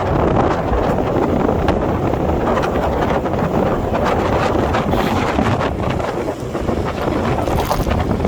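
Wind buffeting the microphone: a loud, steady rumbling rush with small gusty flutters throughout.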